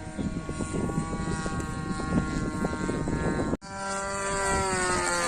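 DLE 20cc single-cylinder two-stroke gasoline engine of an RC warbird model plane running in flight, a propeller drone with a steady pitch. About three and a half seconds in the sound cuts out for an instant, then returns with its pitch sliding steadily lower.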